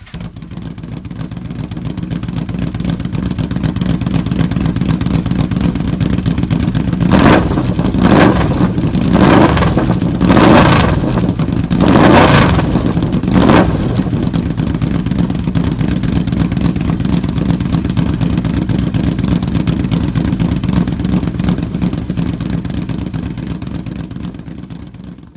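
Yamaha Vmax 1200 V4 engine running through a DragStar 4-2-1 slash-cut exhaust with a QuietCore 1.5-inch baffle. It idles, then about a third of the way in it is revved in about six quick throttle blips over some seven seconds, and then settles back to a steady idle.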